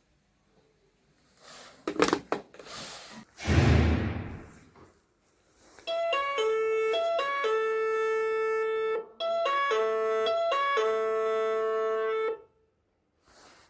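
A few clicks and a brief rushing handling noise, then a Mas intercom's electronic doorbell chime plays its short tune twice, each time for about three seconds.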